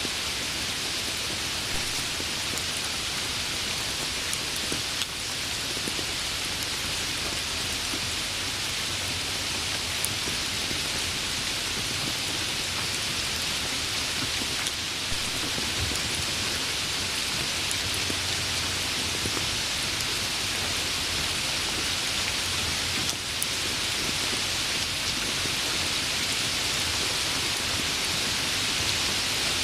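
Steady rain falling on surfaces: an even hiss with scattered drop ticks.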